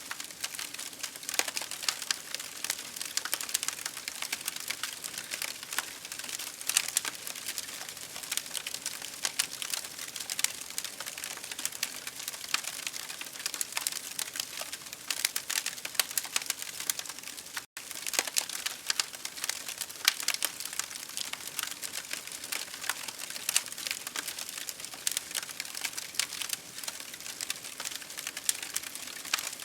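Campfire crackling: dense, irregular pops and snaps over a steady hiss. The sound drops out for an instant about two-thirds of the way through.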